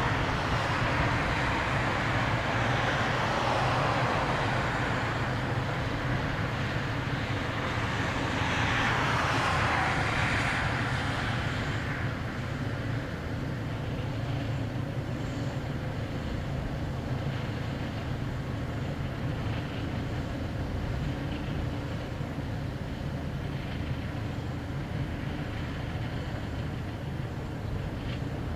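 A train passing on the line, its rolling noise loudest for the first twelve or so seconds and then dropping off, over a steady low drone.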